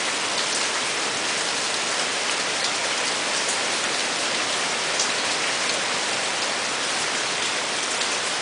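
Heavy hurricane rain falling steadily, with gusty wind, as a steady hiss with scattered drips and ticks.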